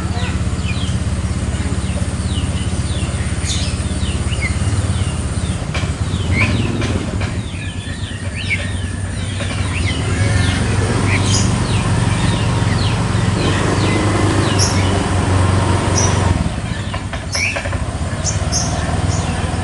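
Many small birds chirping in quick, short notes over a steady low engine hum.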